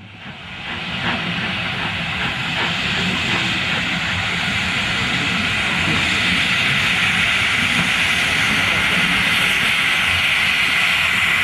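Steam locomotive hissing a steady jet of steam, swelling over the first two seconds and then holding.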